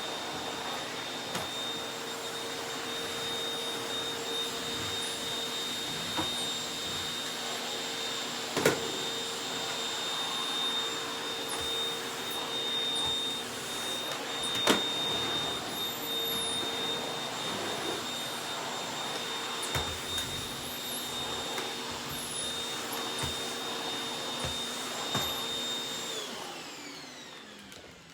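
Vacuum cleaner running with a steady motor whine and rushing airflow, with occasional sharp clicks and rattles as bits of debris are sucked up. Near the end it is switched off and the whine falls away as the motor spins down.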